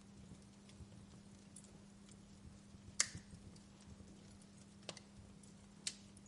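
Wood fire crackling in a fireplace: scattered faint ticks and three sharp pops, the loudest about halfway through and two more near the end, over a faint steady low hum.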